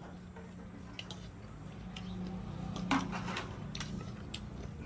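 People eating noodles and momos: chewing and mouth sounds with a few short sharp clicks, the loudest about three seconds in, over a steady low hum.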